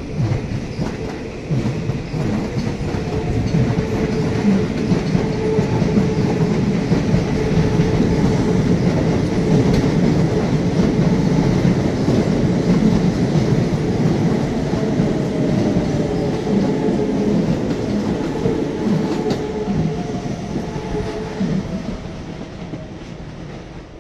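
Electric commuter trains passing close below: a dense rumble with rapid wheel clatter over rail joints, building over the first few seconds and easing off near the end. A faint whining motor tone glides in pitch late on.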